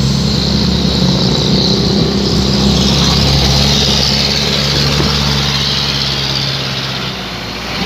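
Truck engine running through a 'chung Takalar' style exhaust, a loud, steady, deep note that eases off and quietens briefly near the end.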